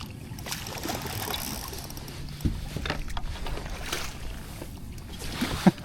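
Water sloshing and splashing around a kayak, with a few sharp knocks and clatters, as a striped bass is brought aboard.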